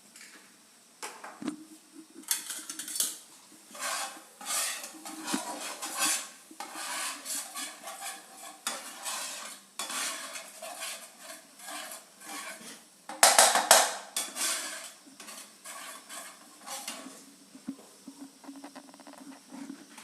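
A spoon stirring thick gravy in a pan, scraping against the pan in repeated strokes, with the loudest scrapes about two-thirds of the way through.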